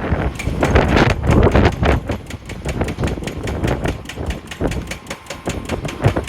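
Wheel loader working, a low engine rumble under a rapid, irregular clatter of knocks that is loudest in the first two seconds and eases off after that.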